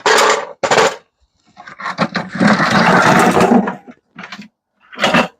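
Several loud bursts of clattering and rattling from scrap microwave parts being worked on. The longest runs for about two seconds in the middle, with short bangs before and after it.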